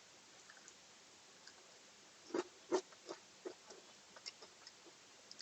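Faint crunching as a piece of crisp deep-fried chicken 65 is bitten and chewed: a handful of short crunches, the first about two seconds in.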